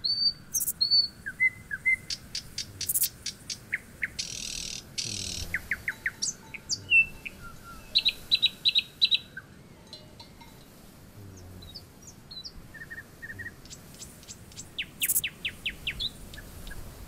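Songbirds chirping and singing: short whistled notes and quick trills of falling notes, coming every second or two. A brief hiss-like buzz about four seconds in.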